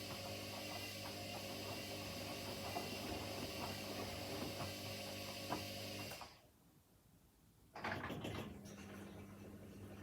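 Washing machines partway through a wash cycle: a steady motor hum with small clicks and water noise. About six seconds in it drops to near silence for a second and a half, then comes back suddenly.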